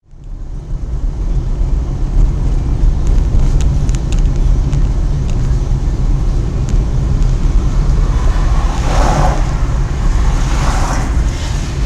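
Car road noise as heard from a dashcam: a steady low rumble of engine, tyres and wind, with two brief louder swells of noise about nine and eleven seconds in.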